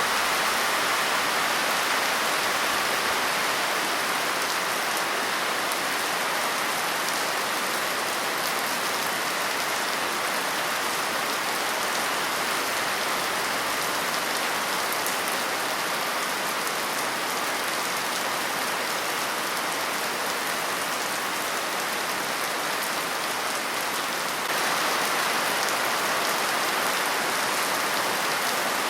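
Steady, even rain falling on a surface, a constant hiss of drops with no thunder. It gets slightly louder near the end.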